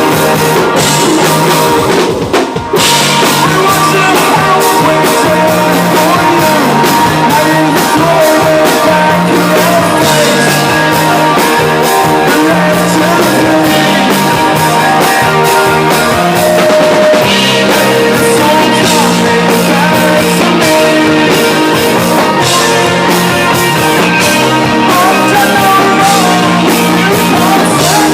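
A live rock band playing loud: drum kit and guitar, with some singing. The music drops out for a moment about two and a half seconds in, then comes straight back in.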